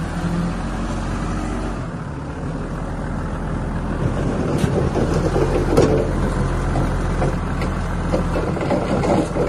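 Heavy earthmoving machine's engine running steadily under load, growing louder and rougher about halfway through, with a few knocks and clanks.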